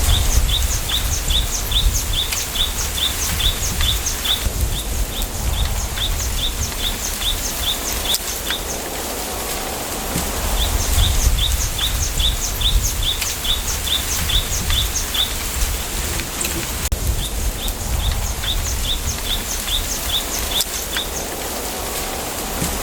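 Bamboo grove ambience: a bird calling in runs of rapid, high, repeated chirps, about four a second, each run lasting several seconds with pauses between, over a steady low rumble of wind.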